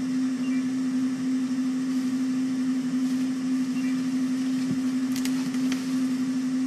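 A steady low hum, with a few sharp cracks about five seconds in.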